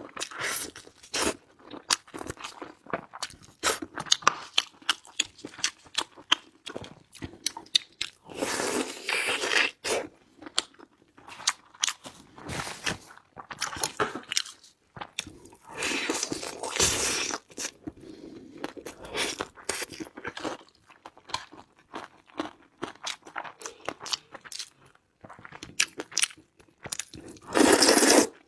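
Close-miked eating: irregular crunching, biting and chewing of food, with a few longer, louder crunchy stretches.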